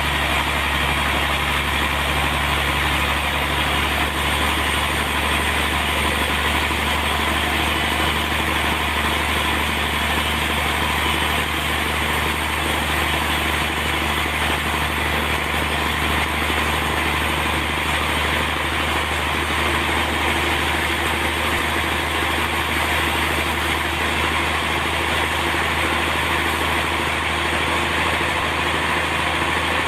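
Bandsaw sawmill running steadily: an engine drone with a constant higher hiss and no change in pace.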